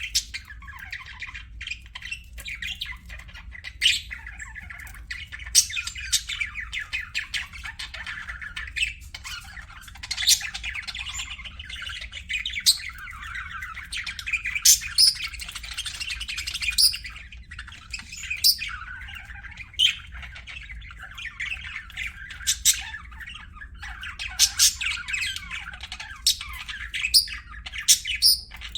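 Pet budgerigars chattering and warbling continuously, with frequent sharp squawks and chirps breaking through, over a faint steady low hum.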